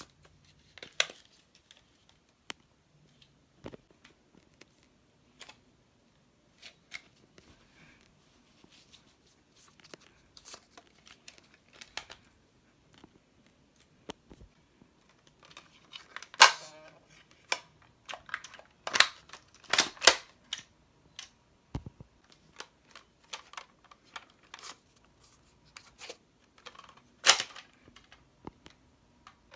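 Irregular plastic clicks and clacks from Nerf toy blasters being handled, with a few louder sharp snaps around the middle and near the end.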